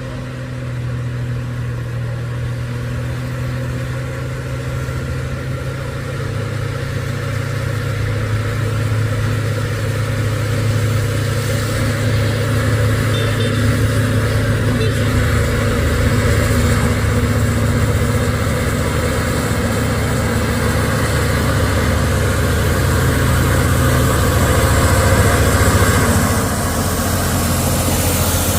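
Mitsubishi Fuso truck's turbo-intercooled diesel engine pulling steadily up a steep climb, growing slowly louder as it comes closer, with a change in the engine note near the end.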